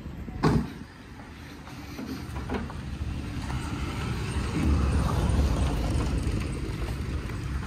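Motor vehicle engine running. One sharp thump about half a second in; the low rumble then grows louder over the next few seconds and holds steady.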